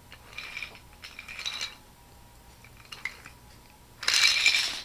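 Small hard objects clattering and clinking in short bursts, twice faintly early and once much louder about four seconds in.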